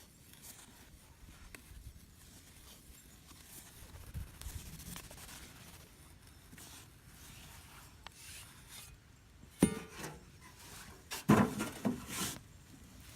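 Scraping and rubbing from hand work on materials. A sharp click comes about ten seconds in, and a louder burst of knocking and scraping a second or so later.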